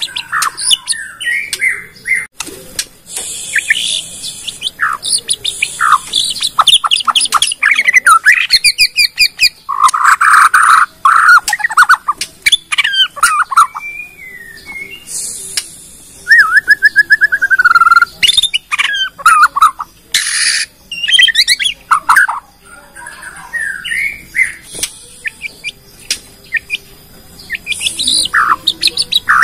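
Bornean white-rumped shama (murai batu) singing a long, varied song of quick whistles, trills and mimicked phrases, with sharp ticking notes between phrases.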